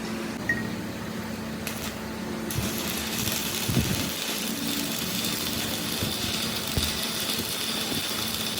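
Workshop machinery running with a steady hum. About two and a half seconds in, a steady high hiss starts and carries on, with a couple of dull knocks.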